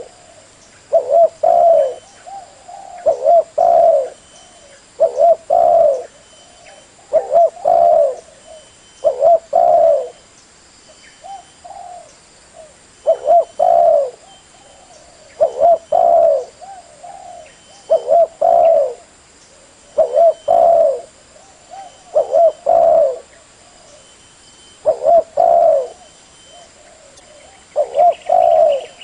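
Spotted dove cooing: a loud phrase of two or three low coos, repeated about every two seconds.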